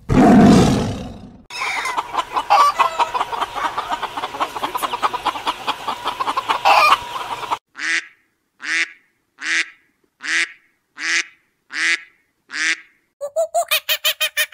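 A white tiger's roar fading out over the first second and a half. Then many geese calling over one another for about six seconds, followed by a greylag goose honking seven times at an even pace. A fast run of short high notes begins near the end.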